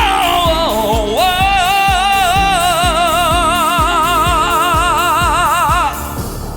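Male vocalist holding the song's final note with wide vibrato over a thumping dance-pop beat. The voice slides down and back up before settling into the long held note. The music stops about six seconds in, leaving a fading ring.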